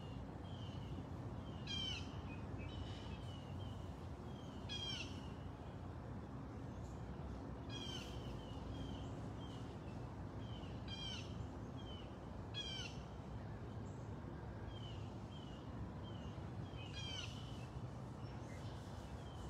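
Birds calling: a short harsh call repeats about six times, every two to three seconds, with softer short chirps in between, over a steady low background hum.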